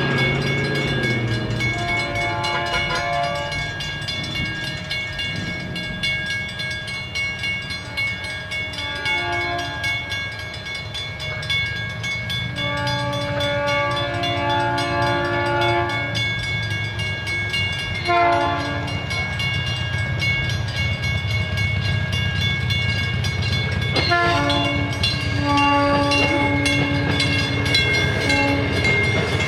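South Shore Line train sounding its horn in several blasts, a few short and two long ones of about three to four seconds, over the steady rumble of the train running. A bell rings steadily throughout.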